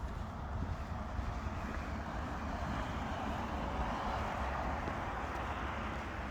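A passing vehicle: a broad rush of traffic noise that swells to a peak about four seconds in and then eases off, over a steady low rumble of wind on the microphone.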